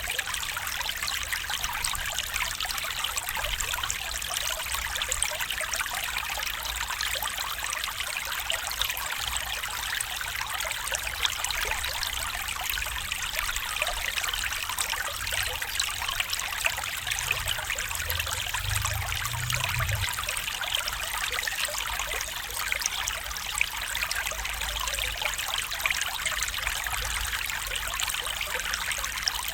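A small stream trickling and babbling steadily over stones, with a faint low rumble that swells briefly about two-thirds of the way through.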